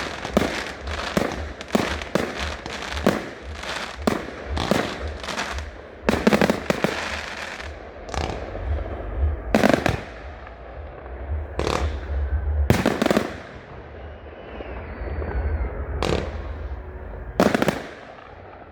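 Fireworks display: a fast run of aerial shell bangs and crackles, then slower single loud bangs a second or more apart.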